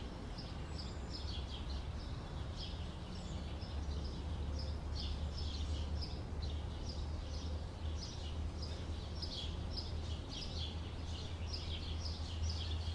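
Small birds chirping, a few short high chirps a second throughout, over a steady low rumble of outdoor background noise.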